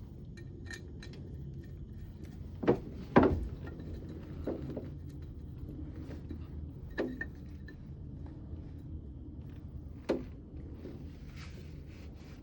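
Metal tools and parts being handled: a few sharp clanks and knocks, the loudest about three seconds in, with lighter clicks between, over a steady low background hum.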